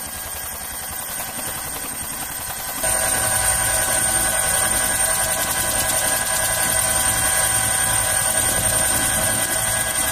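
Helicopter turbine and rotor running steadily in flight with a whining turbine tone. About three seconds in the sound abruptly becomes louder and the whine stronger.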